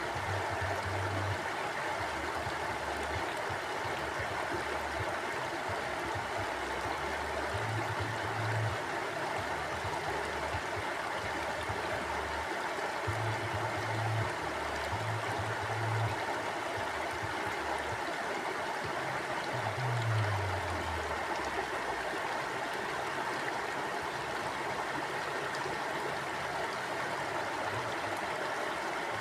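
Stream water flowing steadily over rocks, an even rushing and burbling, with a few brief low rumbles now and then.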